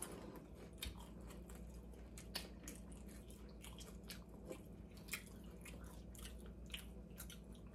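A person chewing crunchy nacho tortilla chips: faint, irregular crisp crunches.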